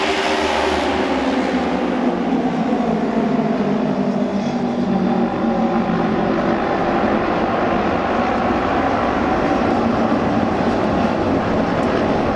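Auto race motorcycles running at speed on the oval track, a loud steady engine drone from several bikes. The pitch drops over the first few seconds, then holds.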